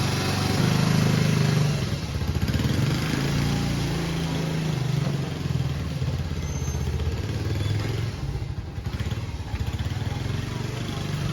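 Motorcycle engine running at low revs, its pitch and level shifting as it rides off for a short round; it is somewhat quieter about eight seconds in.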